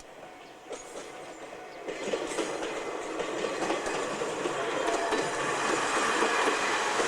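Ichibata Electric Railway train approaching, its wheels clacking over rail joints, growing steadily louder from about two seconds in.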